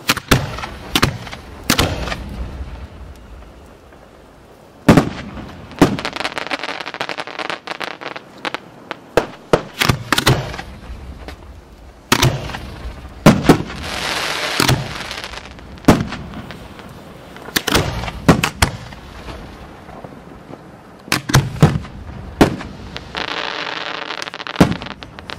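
Fireworks aerial shells fired from mortar tubes and bursting, heard as a rapid, irregular string of loud sharp bangs. Several stretches of hiss come in between the bangs.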